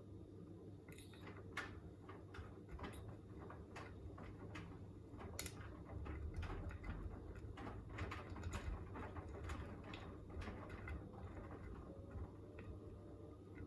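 Beko WTK104121A front-loading washing machine running mid-wash: a low steady hum with many irregular clicks and knocks as the drum turns the wet load. The hum swells for a few seconds in the middle.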